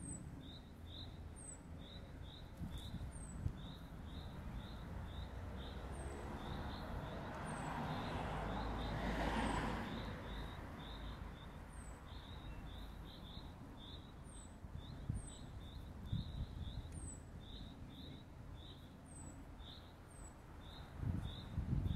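Small birds chirping over and over in short quick notes, with occasional higher thin downward notes. A broad rushing noise swells and fades away about nine seconds in.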